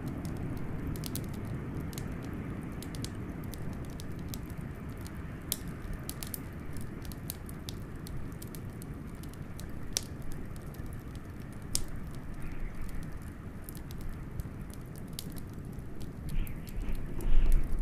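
Wood fire crackling with scattered sharp pops over a steady low rush of blizzard wind, with a louder low swell near the end.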